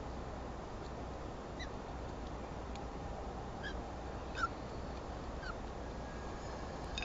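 About four short bird chirps spread over several seconds, the loudest about halfway through, over a steady background hum of outdoor ambience.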